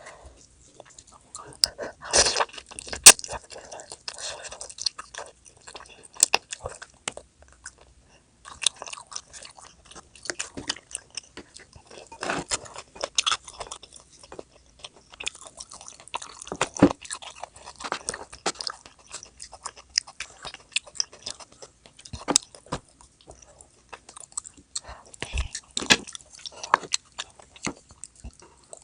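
A person chewing and biting food up close to the microphone, with sharp clicks and crackles at irregular intervals. There is a short pause about a quarter of the way through.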